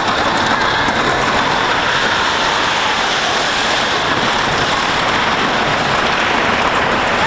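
Wooden roller coaster train running along the track at speed: a steady rumble and clatter of the wheels on the wooden track, mixed with wind rushing over the microphone.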